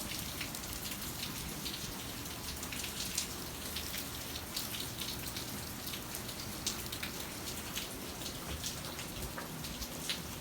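Steady, solid rain falling, with many individual drops ticking sharply on nearby surfaces.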